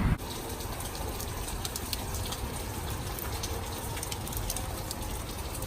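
Steady hiss of water with a light patter through it.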